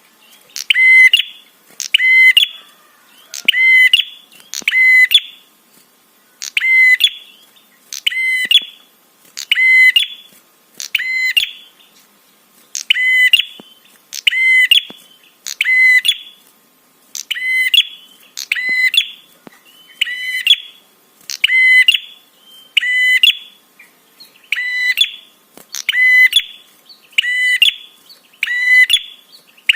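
Prenjak (prinia) calling over and over: a short, sharp, high note about once a second, with a few brief pauses. This is the lure call played to draw other prenjak in.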